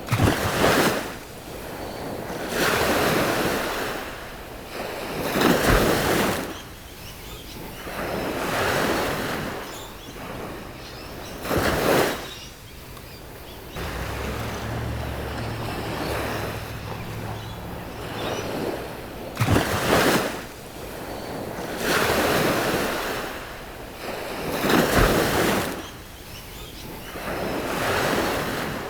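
Ocean waves breaking and washing up a beach, surging and falling back every few seconds.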